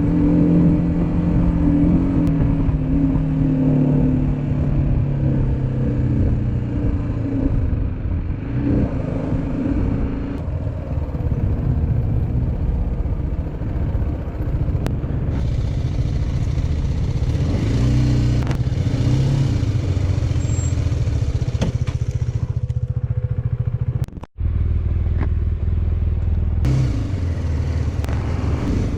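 Motorcycle engine running while riding, over a steady rushing noise. The engine note falls about two seconds in and swells and dips again around two-thirds of the way through. The sound cuts out for a split second about 24 seconds in.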